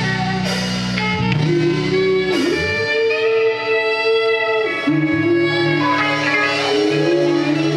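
Live band music: sustained chords and held notes, changing every second or two, with guitar prominent.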